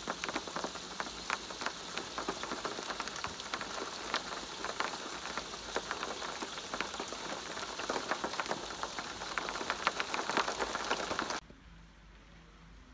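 Rain pattering steadily on a hard surface, many separate drops ticking through a dense hiss; it cuts off abruptly about a second before the end, leaving only faint background sound.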